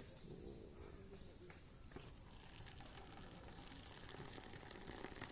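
Faint crackling of a small wood fire of zelkova and willow branches, with a few sharp pops about one and a half and two seconds in and a soft hiss in the second half.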